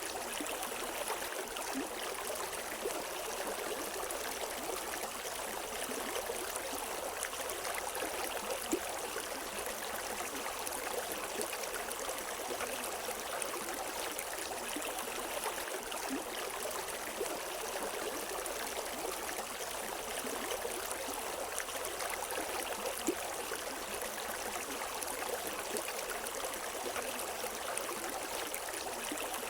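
River water flowing and splashing steadily over rocks, a constant rushing with small gurgles and splashes and no birds.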